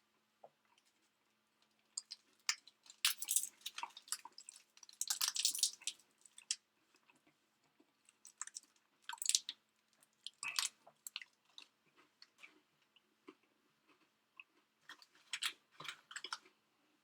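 A person chewing and biting food close to the microphone: irregular crunchy, crackling bites that come in clusters, pausing now and then.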